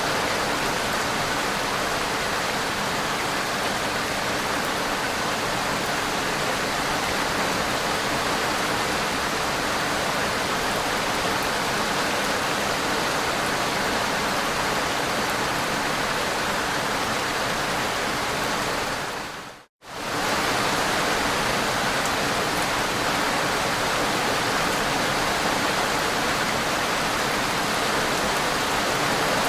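Steady, dense rainfall, an even hiss of rain with no separate drops standing out. It fades out to near silence for a moment about two-thirds of the way through, then comes straight back at the same level.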